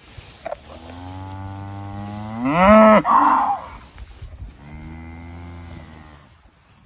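Highland cow mooing twice, calling to herd mates on the other side of a fence. The first moo is long and loud, rising sharply in pitch at its end; the second, a couple of seconds later, is lower and steadier.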